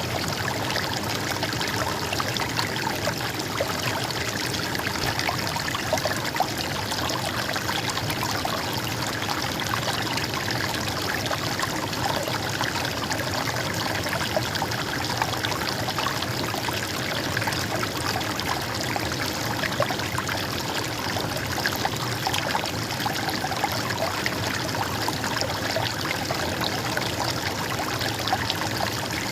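A small river or stream running and trickling steadily, with a constant fine splashing and no breaks.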